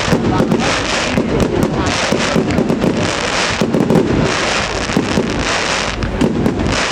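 Fireworks display going off continuously: a rapid, dense run of bangs and crackling with no break.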